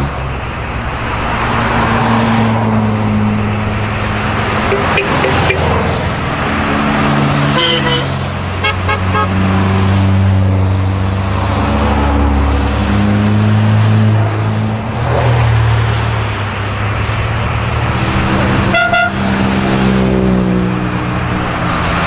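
Engines of vintage race cars running past one after another at parade pace, their pitch shifting up and down. Car horns toot briefly, about a third of the way in and again near the end.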